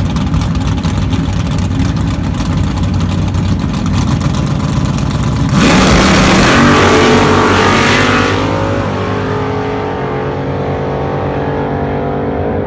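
Two drag-race cars running at the starting line with a choppy engine rumble, then launching at full throttle about five and a half seconds in, the loudest part, and fading as they run away down the track.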